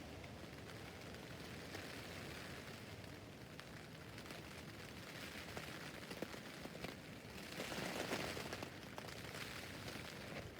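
Rain falling on a tent roof: a steady hiss of rain with individual drops tapping on the fabric. It grows heavier for a second or two about three-quarters of the way in.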